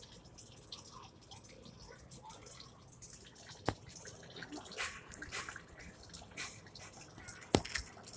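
Irregular dripping and ticking, with two sharper knocks about four seconds in and near the end.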